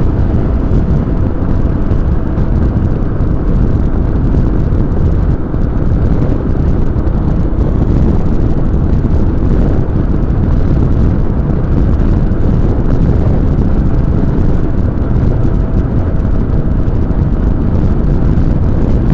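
Motorcycle riding along at steady speed: a constant roar of engine, road and wind rush, with wind buffeting the microphone.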